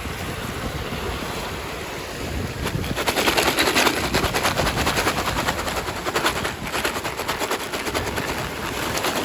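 Plastic packaging crinkling and rustling as it is handled. A soft rustle becomes a dense, louder crackle about three seconds in.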